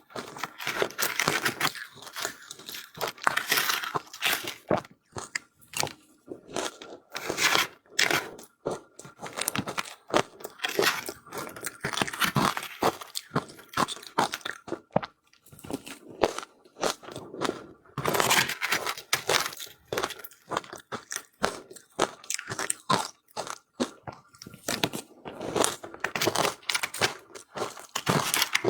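Crunching and chewing of powdery ice, in quick irregular runs of crisp bites.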